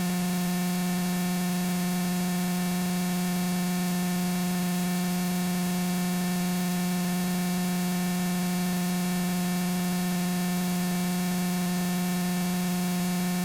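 Steady electrical hum with a constant hiss on the aircraft's radio and intercom audio feed between transmissions, one unchanging low tone with many even overtones.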